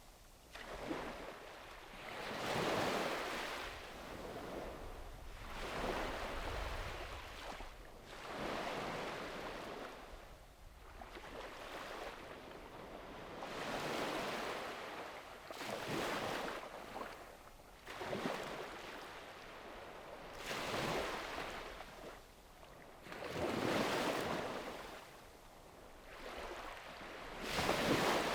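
Small sea waves breaking and washing up a beach, a new surge about every two to three seconds, with a soft hiss between them.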